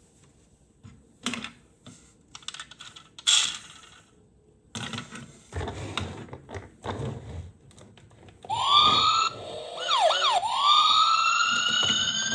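Scattered clicks and knocks for the first two-thirds, then a toy police car's electronic siren starts wailing, several overlapping tones sweeping up and down.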